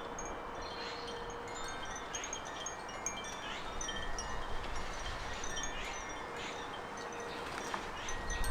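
Wind chimes ringing, several held tones at different pitches overlapping and fading, over a steady outdoor hiss, with small birds chirping high.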